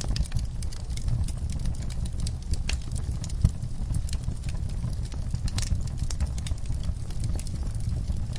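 Wood fire burning in a fireplace: a low steady rumble with irregular crackles and pops, one sharper pop about three and a half seconds in.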